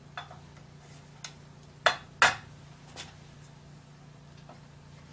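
Metal clutch parts clinking and knocking as they are handled and fitted: five sharp clinks, the loudest two close together a little past two seconds in, over a steady low hum.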